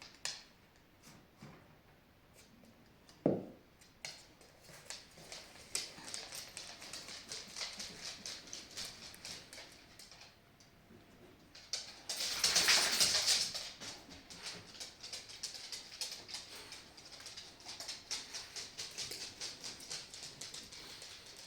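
A dog making quick, repeated clicking and pattering sounds, several a second, with a louder rustling noise lasting about a second and a half near the middle.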